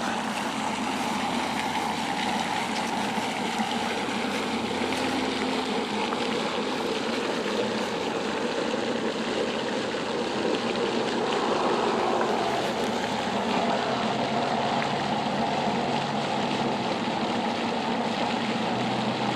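Steady rushing of flowing creek water, swelling slightly about halfway through.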